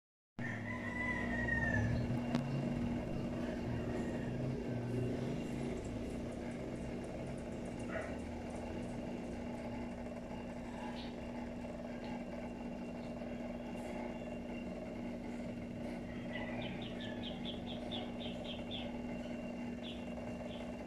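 A long bird call that slides down in pitch near the start, and a quick run of high chirps about three-quarters of the way through, over a steady low hum.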